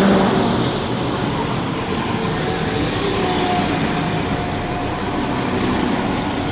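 West Midlands Railway Class 172 Turbostar diesel multiple units running into the station past the platform: a steady sound of underfloor diesel engines and wheels on rails as the coaches go by.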